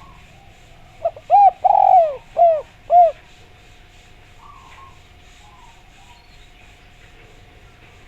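Spotted dove (derkuku) cooing one phrase of about five notes, the middle note the longest, over a faint steady hum.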